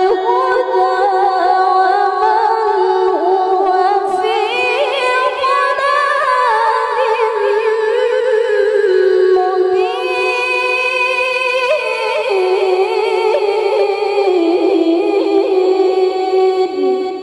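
A woman's high, clear voice in melodic Qur'an recitation (tilawah), drawing out long ornamented notes with wavering runs that step up and down in pitch. The phrase fades out near the end.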